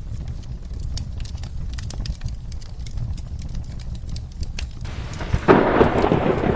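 Wood fire in a fireplace crackling with frequent sharp pops over a low steady rumble. About five seconds in, a rolling peal of thunder comes in with rain.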